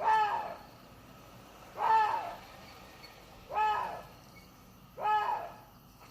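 Water deer calling: four short calls about one and a half to two seconds apart, each rising and then falling in pitch.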